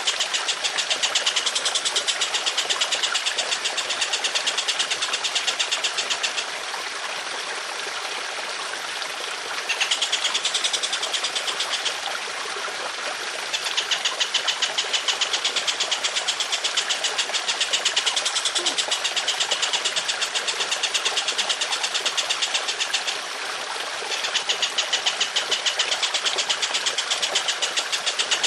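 A songbird giving long, rough rattling bursts of very rapid harsh notes, several to the second, broken by three short pauses. Trickling water runs underneath throughout.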